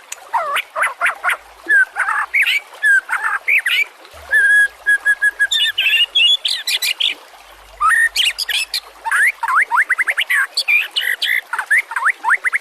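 White-rumped shama singing a varied song of whistled, sliding phrases, with a run of evenly repeated steady notes about four seconds in and quick series of rapid sweeping notes later on.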